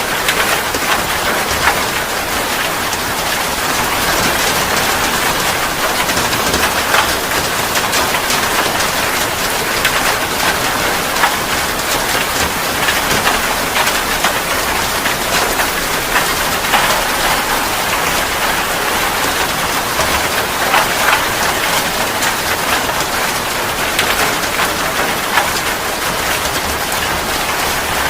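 Steady heavy rain falling on a surface, a constant hiss with many small drop crackles and no pauses.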